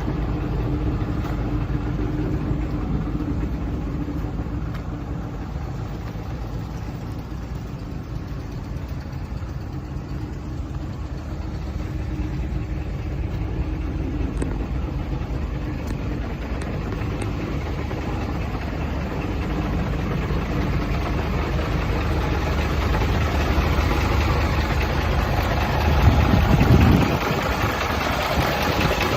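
Hino diesel engine of a 4-ton Condor truck idling steadily, louder for about a second near the end.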